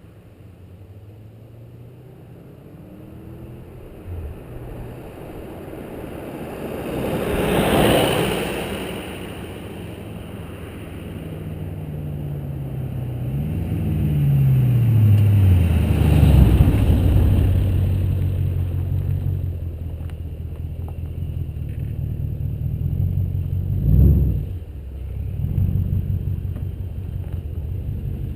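Chrysler 300 SRT-8 wagon's Hemi V8 with a Magnaflow exhaust driving by, its engine note rising and falling as it passes and loudest about halfway through, then running on with a short sharp rev near the end.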